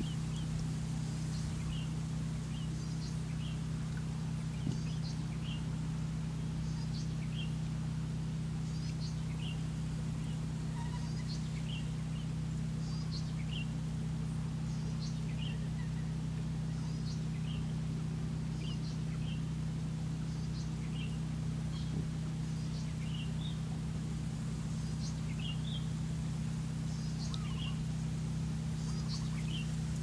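A small bird chirping over and over, short high chirps about once or twice a second, over a steady low hum.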